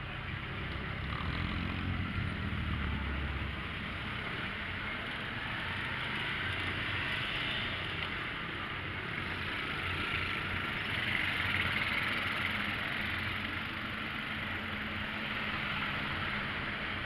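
Road traffic: a steady hiss over engine rumble, with the rumble heavier for a couple of seconds about a second in.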